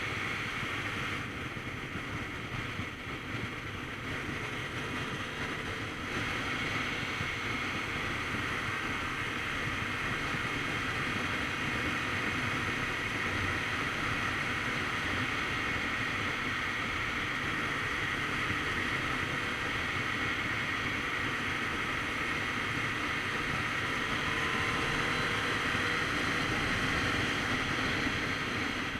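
Wind rushing over the microphone of a Kawasaki Z900RS Cafe motorcycle at riding speed, a steady rush with the bike's inline-four engine running underneath. A little quieter for the first few seconds, then holding steady, with faint rising and falling engine tones near the end.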